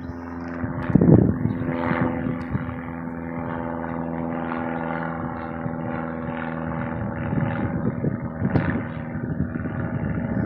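Light propeller airplane engine running steadily at an even pitch, with a couple of brief bumps of noise, about a second in and again near the end.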